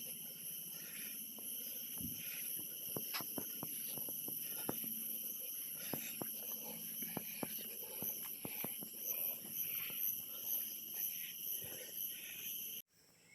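Forest insects holding a steady high-pitched drone in several bands, with irregular footsteps and clicks over it. It cuts off suddenly near the end.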